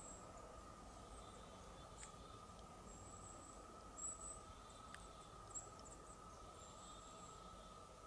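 Faint, very high, thin bird calls: short notes repeated several times through near-silent forest ambience, over a faint steady hum.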